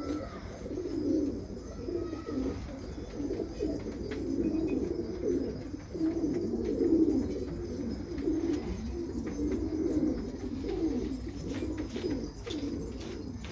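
Several domestic pigeons cooing, their low coos overlapping without a break.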